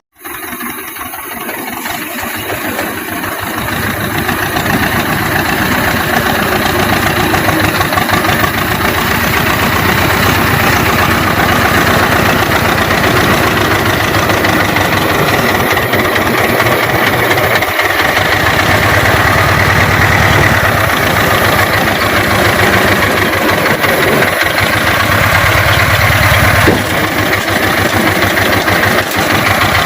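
Tractor diesel engine running, growing louder over the first few seconds and then holding a steady, even run.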